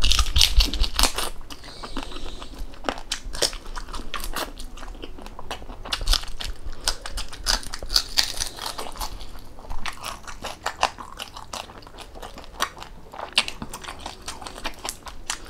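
Close-up eating sounds: biting and chewing food near the microphone, with many irregular, sharp crunchy clicks, loudest in the first second.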